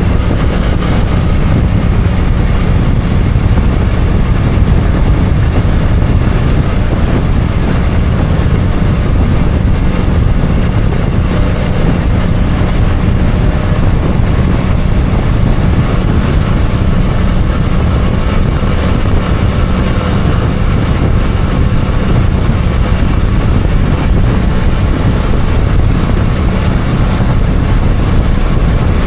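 BMW F800GS motorcycle's parallel-twin engine running steadily at riding speed, under a heavy, even low rumble of wind and road noise.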